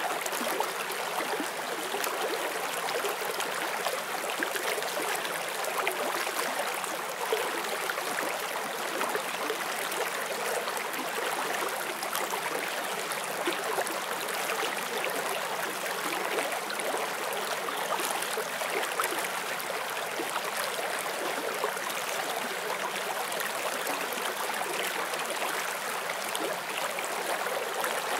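Forest stream flowing over rocks: a steady rushing and babbling of water with small splashes flickering through it.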